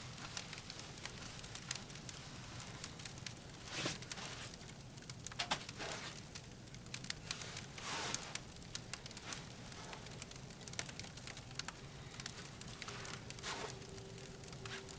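Firewood crackling in a Pomoly Baker Ti wood stove: irregular small snaps and pops over a low steady background, with a few louder pops around four, eight and thirteen seconds in.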